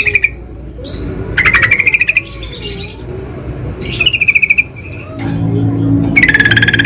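Yellow-vented bulbuls (trucukan) calling: three bursts of rapid chattering notes about two seconds apart. A low steady hum comes in under the last burst.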